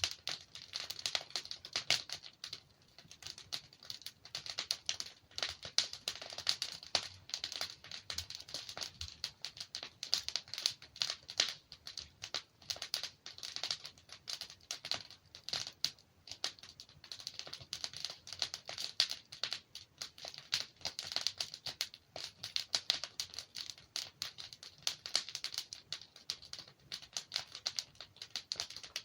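Wood fire burning in a fireplace, with dense, irregular crackling and small pops from the logs.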